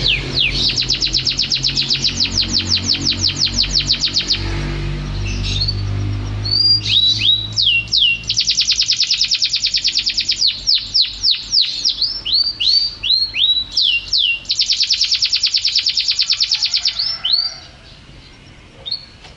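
A domestic canary singing: three long, fast trills of rapidly repeated notes, strung together with downward-sweeping whistled notes, then a short pause near the end before it sings on.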